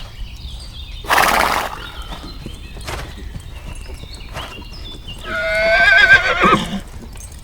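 Horse whinnying: one long, wavering neigh about five seconds in that drops off at its end. It follows a short breathy blow about a second in.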